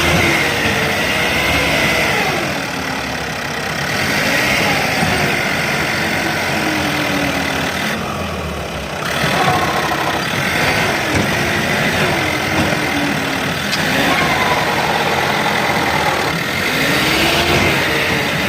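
Mahindra Turbo 595 tractor engine running loud, its pitch rising and falling again and again as it is revved, as when the tractor strains to pull itself out of being stuck.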